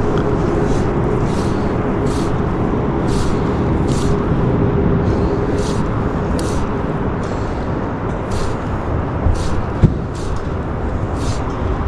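A steady, loud outdoor rush of noise, with short soft swishes recurring about once a second and a single sharp thump near the end.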